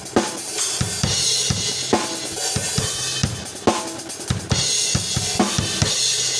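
Isolated drum-kit track playing a steady groove: kick drum, snare backbeat and hi-hat, with cymbals ringing out three times between the snare hits.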